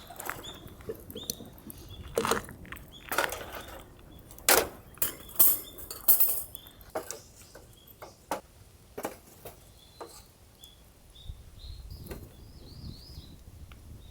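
Cookware and utensils clinking and knocking in a string of separate sharp taps, loudest around the middle, with a few faint high chirps near the end.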